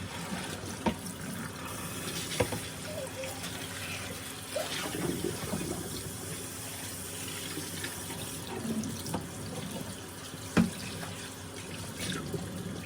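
Water running from a tap into a sink, with a few sharp knocks of things handled in it, the loudest late on.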